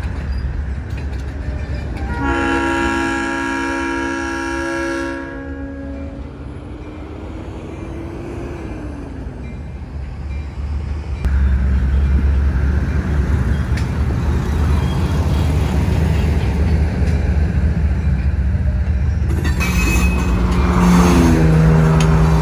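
Train horn sounding one chord blast of about three seconds, starting about two seconds in, over the rumble of tank cars rolling slowly past. From about eleven seconds a deep diesel rumble grows much louder as the GE B39-8E locomotives draw near.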